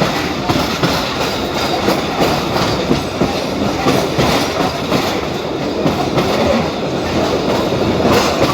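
Passenger train running at speed, a steady rumble with rapid rattling clatter from the wheels and carriage.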